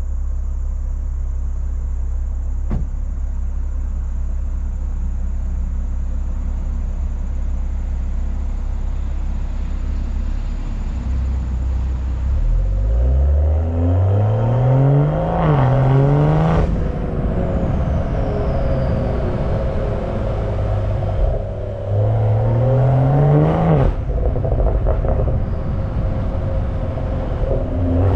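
BMW M340i's turbocharged 3.0-litre B58 inline-six on the move: a steady low rumble, then the engine pulls hard about twelve seconds in, its note climbing steeply. It does so again about twenty-two seconds in and once more near the end.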